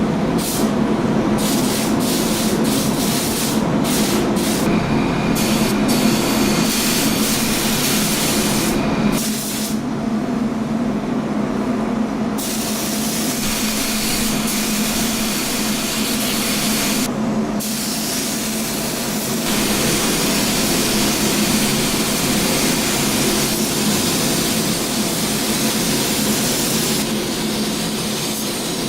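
Spray gun hissing as top coat is sprayed onto a car body, the hiss starting and stopping with each pass of the trigger, with a longer pause about a third of the way in. Under it runs a steady low hum from the spray booth.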